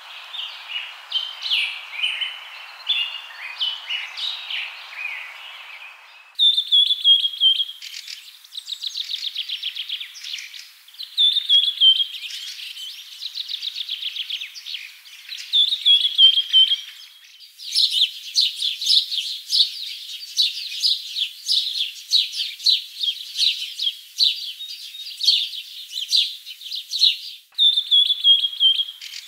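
Birds chirping and singing, cut together from different recordings. It opens with scattered chirps over a soft hiss. About six seconds in it changes to repeated trilled phrases that fall in pitch at the end, then to dense, rapid chirping, with further abrupt changes later on.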